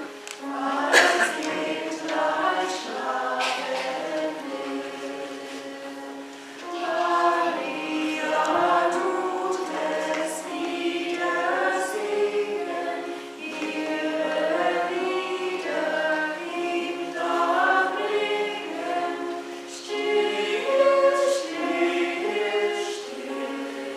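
Church choir singing, several voices together, in phrases that briefly ease off every six or seven seconds.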